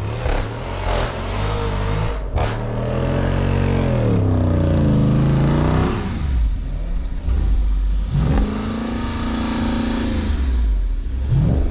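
Jeep Wrangler's engine revving, its pitch swinging down and back up twice, with one sharp knock about two seconds in.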